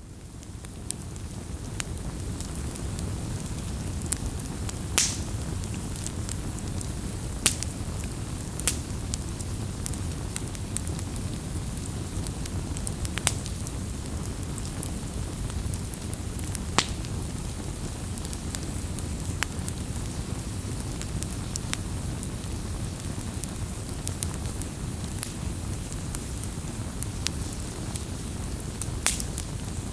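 Wood campfire burning: a steady low rush of flames with sharp crackles and pops every second or two. It fades in over the first couple of seconds.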